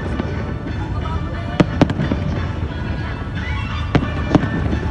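Aerial fireworks shells bursting: four sharp bangs in two close pairs, one pair under two seconds in and the other about four seconds in, over a steady low rumble.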